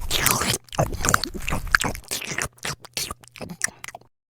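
Rapid, irregular crunching and scraping sound effects in short choppy bursts, cutting off suddenly near the end.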